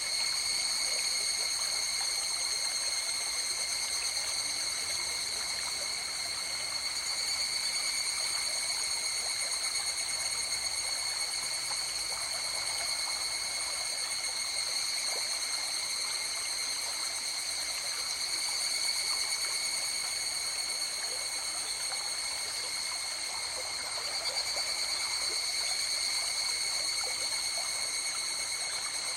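River water running steadily, a continuous rushing and trickling. A steady high-pitched ringing tone at several fixed pitches sits over the water throughout.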